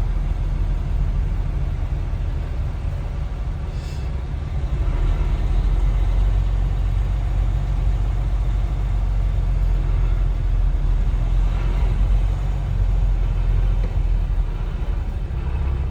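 Steady low engine and road rumble heard from inside a truck cab moving slowly in freeway traffic, with a faint brief click about four seconds in.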